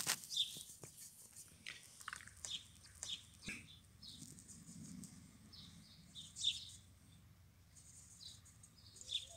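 Small birds chirping now and then in short, high notes, with a few soft clicks among them.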